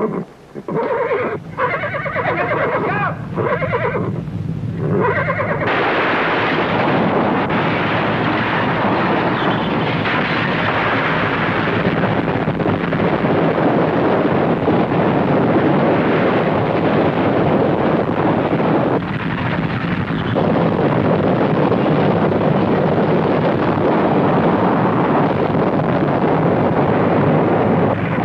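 A horse whinnying repeatedly, then from about five seconds in a loud, continuous rumbling noise. It is a dramatised earthquake sound on an old TV-drama soundtrack.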